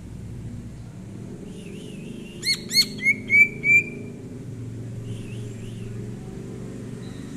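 Cucak ijo (green leafbird) singing: soft warbling, then a burst of five loud whistled notes about two and a half seconds in. The first two notes are sharp and quick, the last three longer and steadier, and softer warbling follows. A low steady rumble runs underneath.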